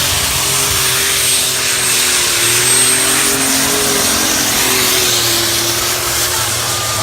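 Competition pulling vehicle's engine running flat out under load during a pull, its pitch wavering slightly, with a thin high whistle held above the engine noise.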